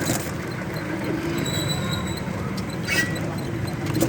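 Steady vehicle running noise heard from inside the cab while driving, with a brief click about three seconds in.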